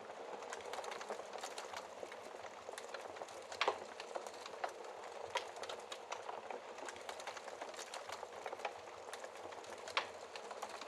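Wood fire crackling: a steady hiss of burning logs with frequent, irregular small pops and two louder sharp pops, one about four seconds in and one near the end.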